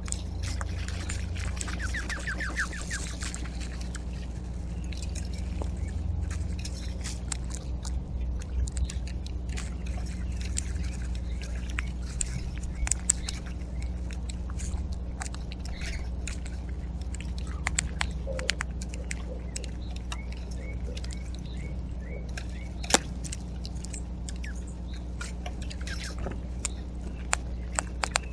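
Backyard feeder sounds: a small bird's brief rapid trill about two seconds in, then scattered sharp ticks and clicks, over a steady low hum.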